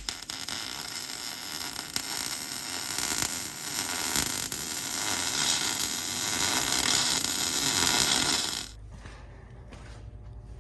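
Welding arc crackling and hissing steadily, swelling a little louder before it stops abruptly near the end as the weld is finished.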